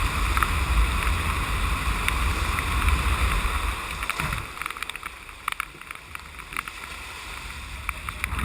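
Wind rumbling on the microphone over a rush of water noise. It eases off about four seconds in, leaving a quieter hiss with scattered clicks.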